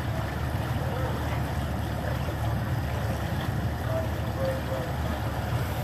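Fire boat's engine running steadily, a low even hum with some water noise.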